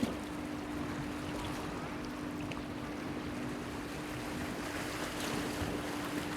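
Waves washing against a seaside breakwater, with a steady low hum running under them throughout and a single short click at the very start.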